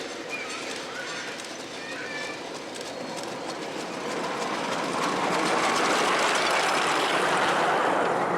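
Miniature railway train running along the track, its noise growing louder about four seconds in as it comes closer. A few short high squeaks sound in the first two or three seconds.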